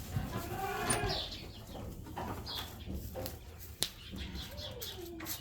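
Goats bleating, with a short call near the start and another near the end, while birds chirp now and then; a sharp click sounds about four seconds in.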